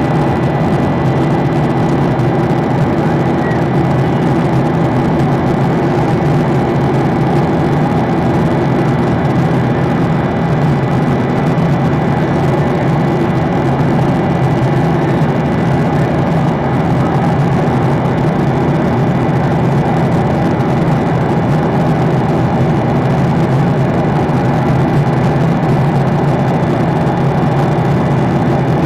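Steady drone of a passenger airliner's engines and airflow heard inside the cabin in flight, with a faint steady high tone over it.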